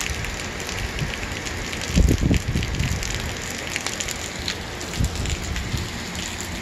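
Steady summer rain falling, an even hiss dotted with many small drop ticks. A low thump about two seconds in and a smaller one about five seconds in.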